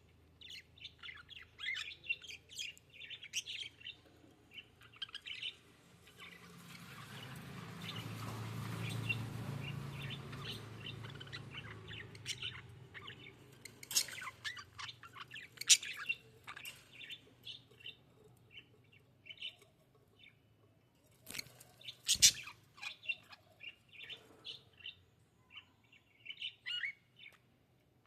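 Budgerigars chirping, a run of short high chirps with a few sharper, louder ones. Partway through, a rushing noise with a low rumble swells up and fades away over several seconds.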